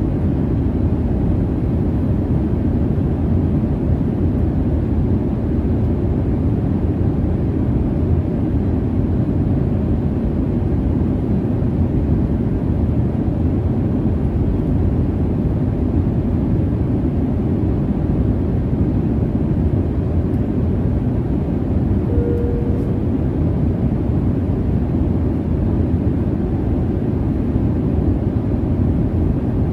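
Steady low rumble of a jet airliner cabin: engine and airflow noise, even and unchanging. A short faint tone sounds briefly about three-quarters of the way through.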